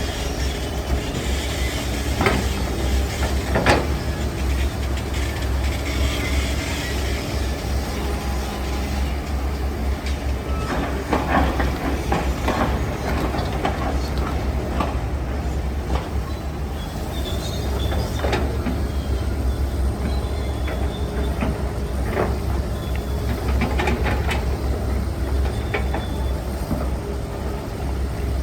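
Heavy diesel construction machine running steadily with a low rumble, with scattered clanks and knocks over it.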